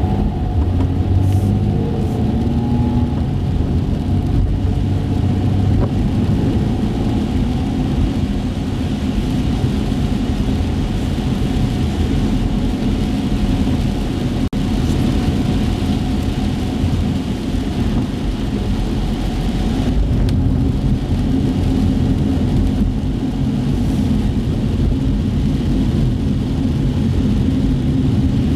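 Inside a car driving on wet city streets: a steady low engine and road rumble with the hiss of tyres on wet pavement.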